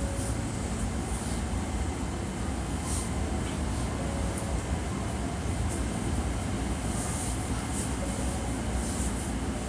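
Steady low rumble inside a Hankyu 1300 series train car, with a few faint held tones and short high hisses over it.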